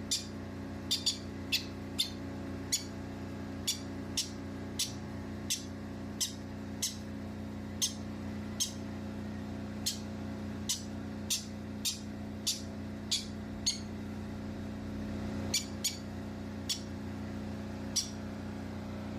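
Baby bird making short, high, sharp chirps, which fit begging calls during hand-feeding. They repeat slightly irregularly, a little over once a second, over a steady low hum.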